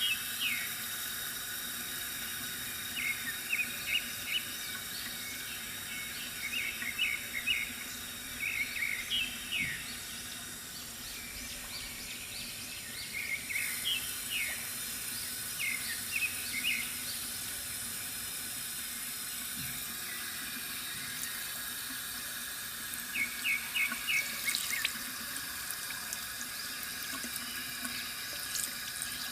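Bamboo water fountain trickling steadily, with birds chirping in short runs of quick notes every few seconds and a quiet stretch of several seconds with no birdsong.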